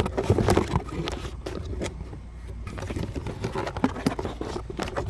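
Irregular metallic clicks, knocks and scrapes of tools and parts being handled while a new engine mount is worked into place, most of them in the first second.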